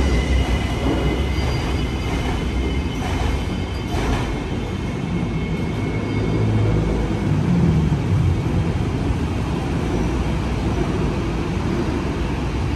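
Ampang line light-rail train pulling out of an elevated station and running away along the viaduct, its motor whine and wheel rumble fading over the first few seconds into a steady background of street traffic.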